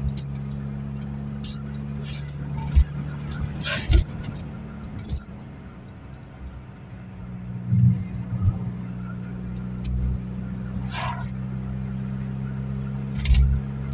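Ford Fiesta Mk2 XR2's carburetted 1.6-litre four-cylinder engine running while the car drives, heard from inside the cabin over tyre and road noise. The engine note fades for a few seconds and then picks up again about eight seconds in. A few sharp knocks and rattles from the car come through along the way.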